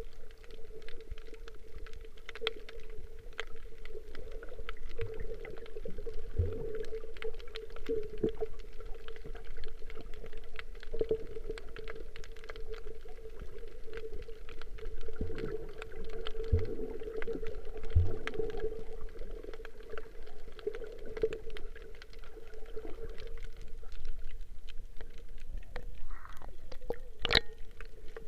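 Muffled water sloshing and gurgling over a steady hum, with scattered clicks and a few low thumps.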